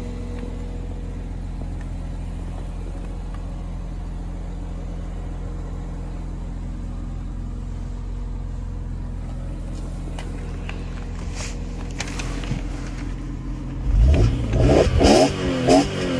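2003 BMW M3's straight-six engine idling steadily, then revved in a few quick blips near the end, the pitch rising and falling each time.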